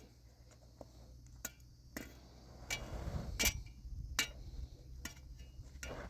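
Scattered light clicks and knocks of objects being handled, with a denser scuffling stretch about three seconds in.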